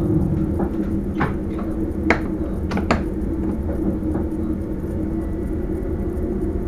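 Sprinter train running, heard from inside the driver's cab: a steady low rumble with a hum, broken by a handful of sharp clicks and knocks, the loudest about two and three seconds in.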